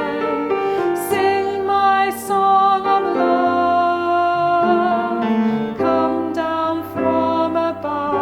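A slow song sung in held notes, with instrumental accompaniment that sounds like piano or keyboard.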